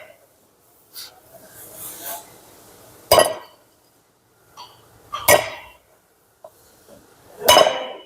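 Hammer blows driving a new pilot bearing into the centre of a flywheel: three sharp metal strikes about two seconds apart, each ringing briefly, with a few lighter taps between them.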